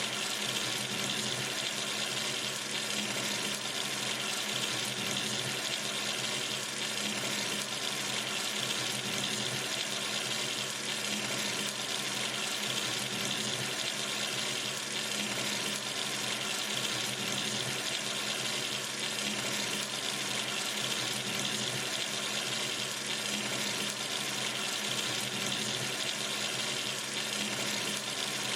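Kitchen or bathroom sink tap running steadily, water splashing into the basin in an even, unbroken rush.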